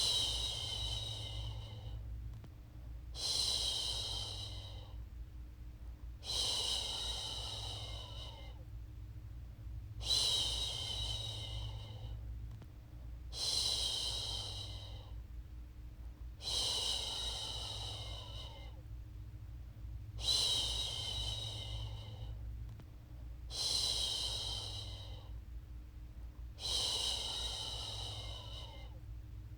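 A woman's voice making long, soft "shhh" shushing sounds to lull a baby to sleep, about nine shushes, one every three and a half seconds, over a steady low hum.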